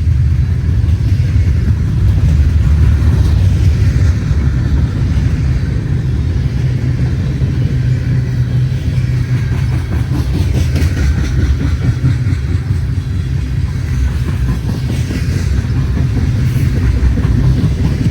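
Freight train rolling past: a steady, loud rumble of wheels on the rails, with a fainter higher-pitched sound coming and going in the middle.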